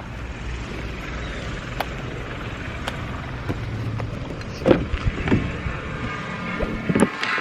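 A car's steady low rumble, with several sharp knocks and clicks, the loudest about halfway through and near the end.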